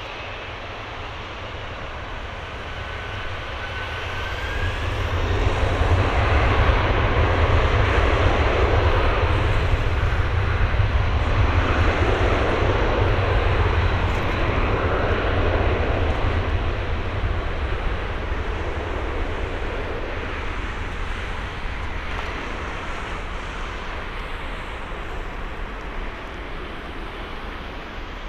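Jet engines of a Boeing 767-300F freighter (GE CF6-80C2 turbofans) at high power on takeoff, a deep rumble and roar that grows loud about five seconds in, holds for some ten seconds, then slowly fades as the aircraft moves away.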